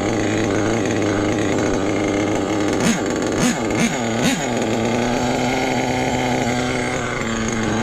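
Small nitro RC truck engine idling steadily, with four quick throttle blips around the middle. It is being tuned: the low-end needle has been richened a lot, but the engine still pulls punchily off idle.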